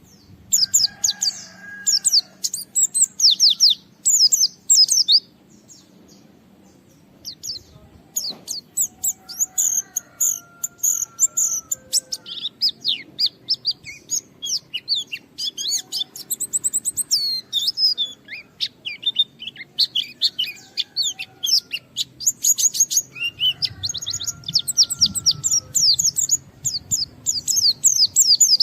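White-eye (pleci) singing loudly in fast, high twittering phrases, with a pause of about three seconds a few seconds in. A few lower whistled notes come in between the phrases.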